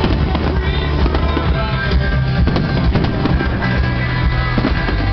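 Music playing loudly over an aerial fireworks display, with several sharp bangs of bursting shells.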